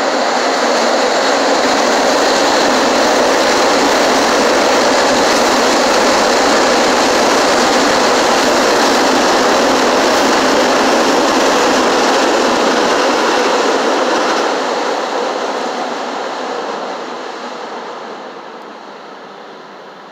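CTA 'L' rapid transit train running past on the elevated steel structure, a loud steady rumble that fades away over the last several seconds as the train moves off.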